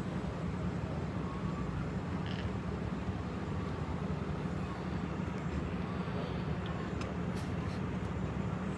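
Steady low drone of vehicle engines running, holding an even level throughout.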